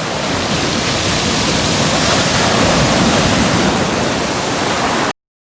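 Loud, steady rush of falling water, even across all pitches, that cuts off suddenly about five seconds in.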